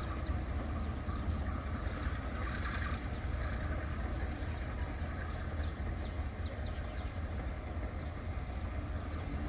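Steady low rumble of a diesel freight locomotive, with many short high chirps of birds throughout.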